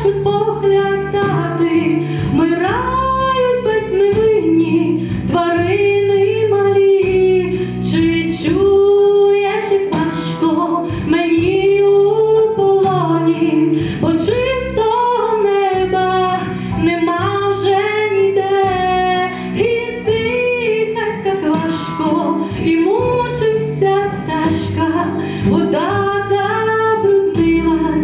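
A song: a high voice sings a continuous melody over instrumental backing.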